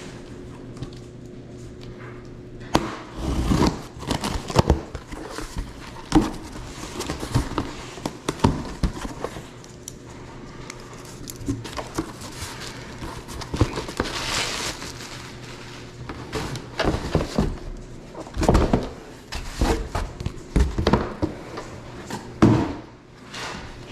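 Handling sounds from unboxing a motorcycle helmet: irregular knocks, clicks and packaging rustles as a three-quarter helmet is unpacked and turned in the hands, over a faint steady hum.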